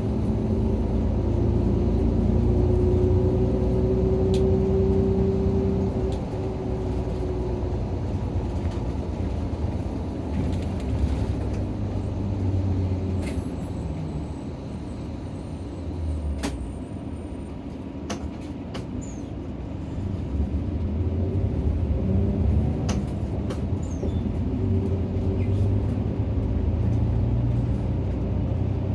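Nissan Diesel RA274 city bus heard from inside the cabin, its diesel engine pulling hard with a rising drone for the first few seconds. It eases to a quieter stretch with a few sharp clicks, then picks up again.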